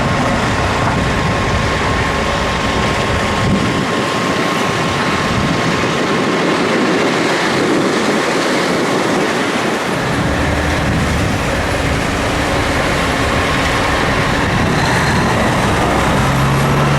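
Large excavator and quarry truck working: heavy diesel machinery running with a loud, dense mechanical din. A thin steady whine runs through the first several seconds, and steady engine tones rise about halfway through.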